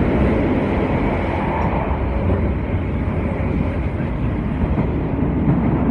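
TranzAlpine passenger train running, a steady rumble heard from on board.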